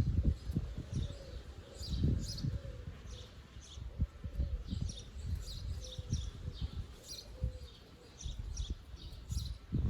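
Songbirds singing and chirping in many short, high phrases, with low rumbling gusts of wind on the microphone, the strongest near the start and about two seconds in.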